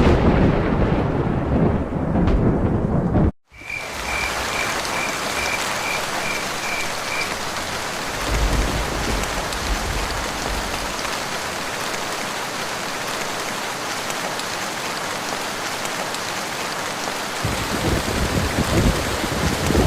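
Steady rain with rolling thunder that cuts off abruptly about three and a half seconds in, then continues as an even rain hiss. A short run of evenly repeated high calls, about two or three a second, follows for a few seconds. Low thunder rumbles again around eight seconds in and near the end.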